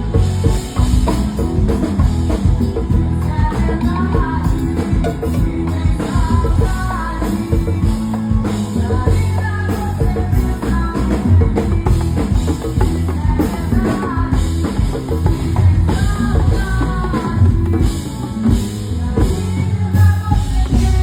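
Band music with a drum kit and a strong bass beat, and a voice singing over it.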